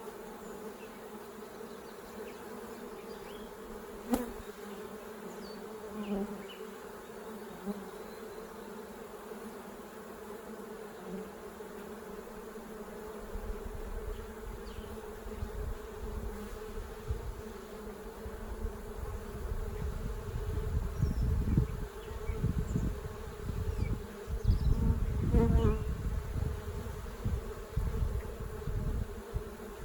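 Honeybees buzzing around an open hive, a steady hum. A sharp click comes about four seconds in, and from about halfway through a low rumble joins the hum and grows louder.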